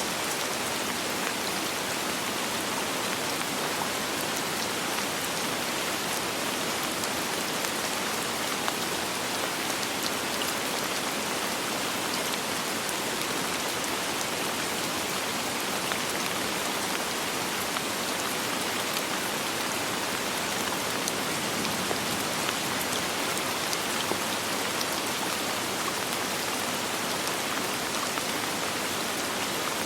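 Steady soft rain falling, an even hiss of many drops with faint individual drop ticks, no thunder.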